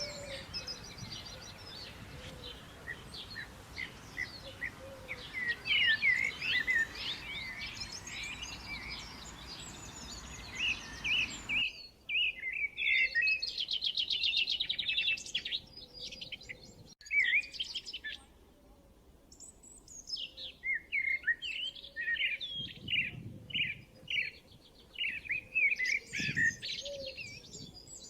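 Small songbirds chirping and trilling in quick, high notes. About a third of the way in, the background hiss drops away abruptly and a different run of calls, including fast rattling trills, carries on.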